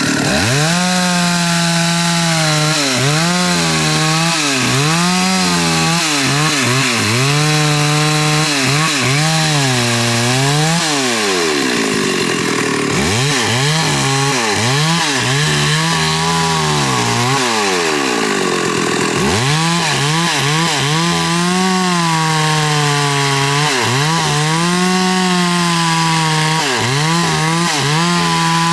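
Chainsaw cutting through a large khaya trunk, its engine speed rising and falling over and over as the chain bites into the wood. About halfway through the engine speed drops lower for several seconds, then climbs back up.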